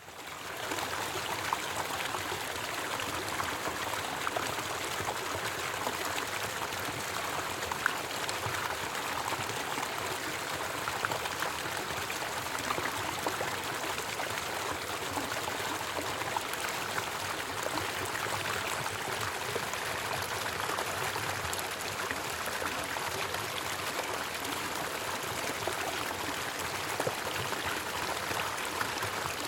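Creek water rushing and splashing over a small waterfall, a steady unbroken flow with small splashes scattered through it.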